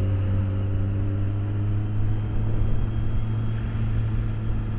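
BMW K1200S inline four-cylinder engine running at a steady note while riding, heard through microphones inside the rider's helmet, with road and wind noise underneath.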